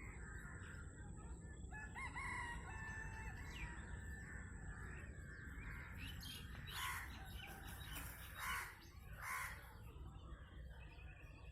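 A rooster crowing, one long held call about two seconds in, then several short, louder bird calls in the middle, over a steady low background rumble.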